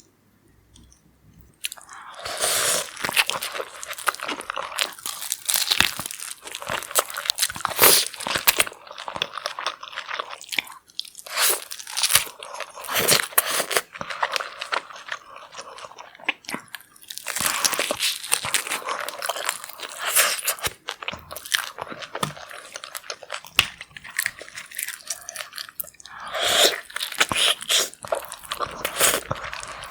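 Close-miked eating sounds of a person biting, crunching and chewing saucy seafood, in repeated runs of crunches after a quiet first second or two.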